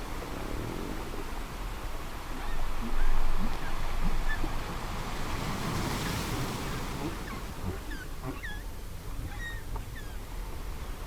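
Ocean surf, a steady wash of waves with a louder surge about three seconds in. In the second half, short rising animal calls sound over the waves.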